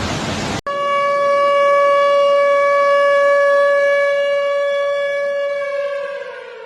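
A warning siren sounding one steady, loud note for about five seconds, then falling in pitch and fading as it winds down. Before it, a rushing noise cuts off abruptly.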